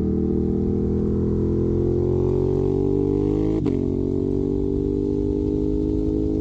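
Ducati Monster 821's L-twin engine running through a Termignoni exhaust: the engine note climbs slowly, breaks sharply about three and a half seconds in, then holds steady.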